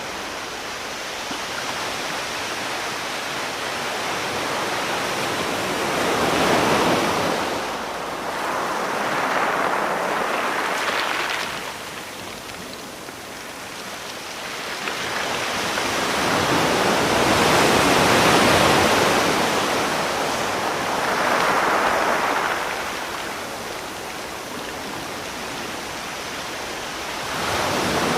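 Sea surf: a continuous rush of waves that swells and eases every few seconds, with several louder surges as waves break and wash in.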